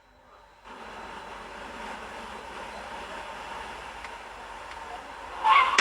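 Steady, even running noise of a moving vehicle, starting under a second in.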